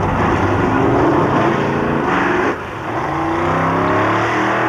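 Pro Gas drag car's engine revving hard. Its pitch climbs for about two and a half seconds, drops back briefly, then climbs again until it cuts off at the end.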